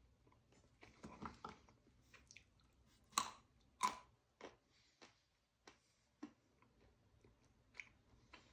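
A person biting and chewing mixed nuts with scattered crunches; two loud crunches come about three and four seconds in.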